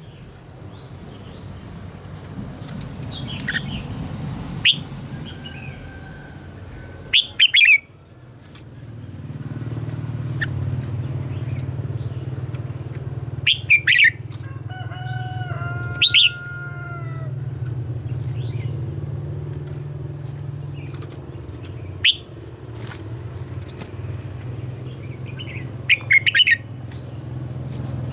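Red-whiskered bulbul singing in short, loud, sharp phrases every few seconds, with a run of held, evenly stacked notes about halfway through, over a steady low rumble.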